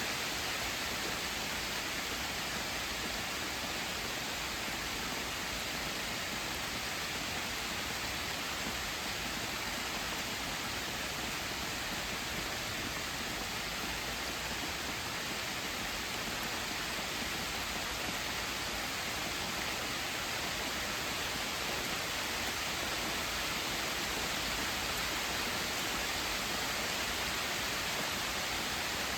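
Steady rain falling, an even hiss with no single hit or rumble standing out.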